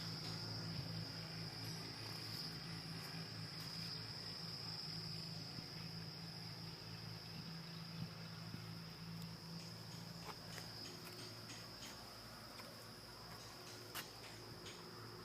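A steady high-pitched whine or trill held throughout, over a faint low hum that fades out about ten seconds in, with a few faint clicks.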